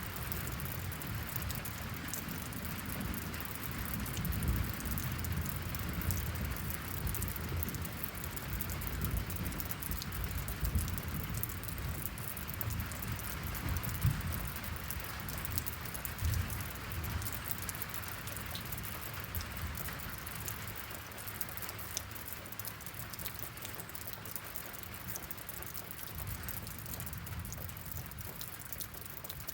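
Steady rain with pattering drops, over a low rumble that is strongest in the first half and fades away about two-thirds of the way through.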